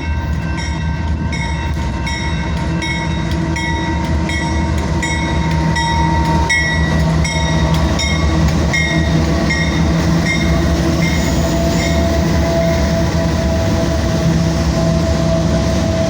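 Union Pacific freight train's lead diesel locomotives passing close by with a steady low engine drone. A bell dings about twice a second and stops about twelve seconds in.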